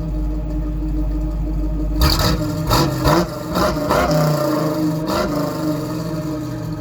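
A carbureted 302 V8 engine idling, then blipped several times in quick succession from about two seconds in before settling back to idle. The owner can't tell whether it is misfiring, running rich or has its timing off.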